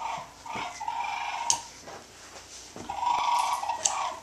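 Dog whining and yelping excitedly in repeated drawn-out cries, with a few sharp clicks between them.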